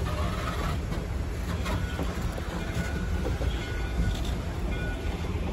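Steel passenger coaches rolling slowly past: a steady low rumble of wheels on rail, with wheels clicking over the rail joints.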